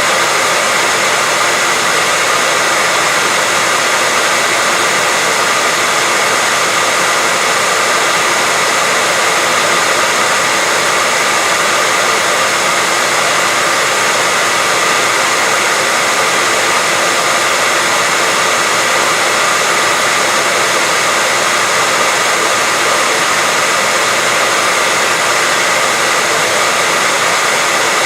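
Steady white noise: an even, unchanging hiss with little bass and a faint steady tone or two inside it.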